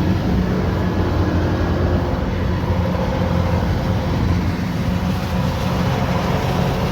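Kubota rice combine harvester's diesel engine running steadily under load, with a deep, even hum.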